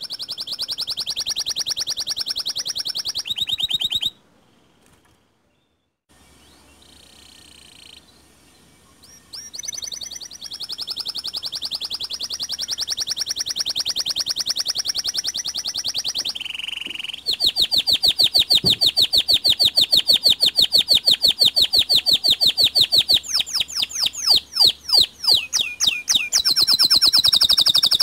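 White local canary singing long, rapid rolling trills, phrase after phrase, with a short pause about four seconds in.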